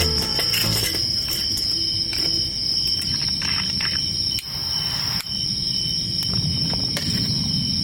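Crickets chirping in a steady, high, unbroken trill over a low rumbling background, with a few scattered clicks.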